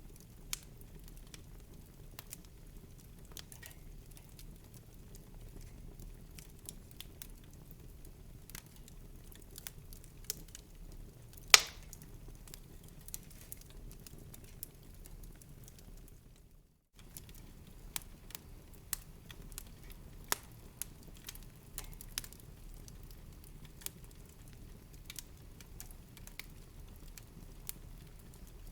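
Wood fire crackling in a fireplace: irregular sharp pops and ticks over a faint low rumble, with one much louder pop about eleven seconds in. The sound drops out completely for a split second a little past halfway.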